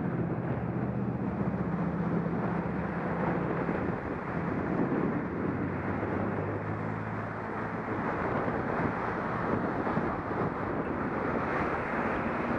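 Wind rushing over a bike-mounted action camera's microphone while riding, with traffic noise and a low engine hum underneath for the first part.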